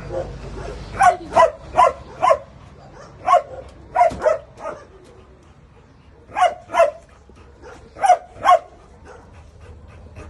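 Dog barking in short, sharp barks, in quick runs of two to four with pauses between, about a dozen barks in all.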